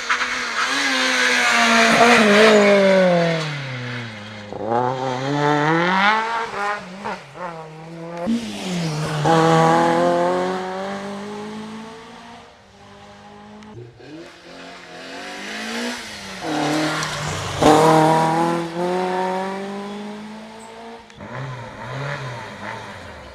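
Rally cars driven hard past the listener, one after another. Their engine notes climb and drop again and again as they accelerate through the gears and lift off, with loud peaks several times and quieter gaps between the passes.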